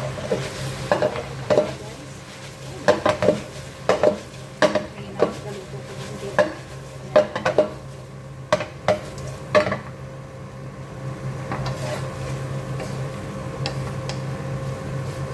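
A utensil clacking and scraping against a pan as a chicken-and-vegetable stir-fry is stirred, over a sizzle. The clatter stops about ten seconds in, leaving the sizzle of the pan, which now holds liquid released by the vegetables.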